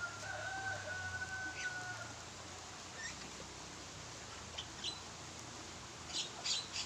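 Lovebirds chirping: a few scattered short, sharp chirps, then a quick run of chirps near the end. A steady whistle-like tone sounds faintly for the first two seconds.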